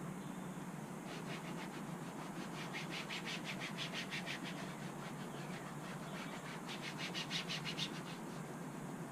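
Rapid back-and-forth scrubbing on plastic engine-bay trim while a coating product is worked in, about eight strokes a second, in two spells, the second shorter, over a steady low hum.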